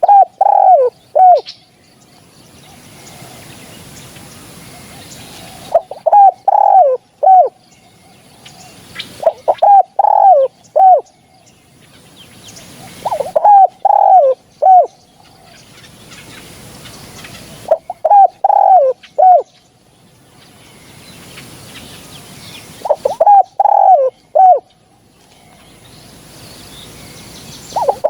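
Spotted dove cooing: a phrase of three or four short, deep coo notes, repeated about six times at intervals of four to five seconds, with a faint hiss between the phrases. It is a decoy call used to lure spotted doves.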